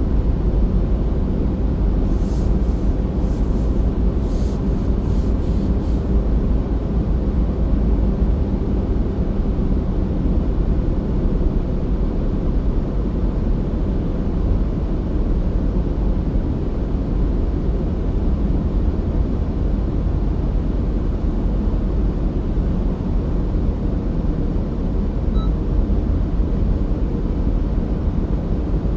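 Car driving: a steady low rumble of road and engine noise, with a short run of faint high clicks a few seconds in.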